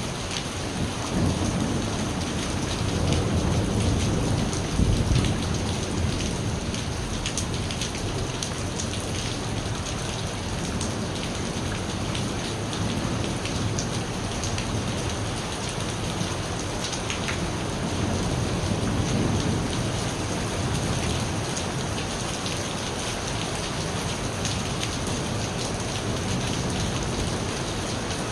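Steady rain falling, with low rolling thunder that swells from about a second in to about six seconds, and again a little past the middle.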